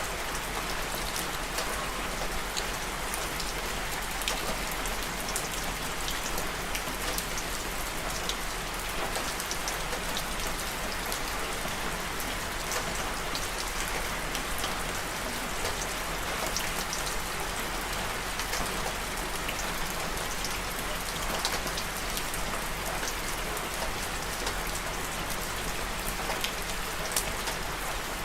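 Steady rain falling, with many small droplet ticks on a hard surface over an even hiss.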